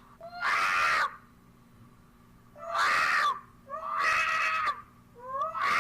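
Cat yowling loudly: four harsh, drawn-out cries of about a second each, with short pauses between them.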